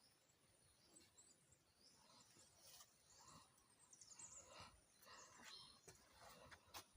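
Near silence: faint rural outdoor ambience with a few faint bird chirps.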